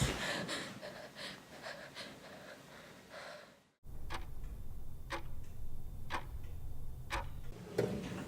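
A fading echo dies into a moment of silence. Then a clock ticks about once a second over a low, steady room hum.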